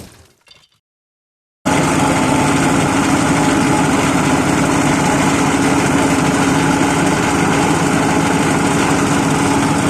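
Fabric-scrap shredding machine running at a steady speed, a loud, even machine noise with a steady hum, starting suddenly a little under two seconds in.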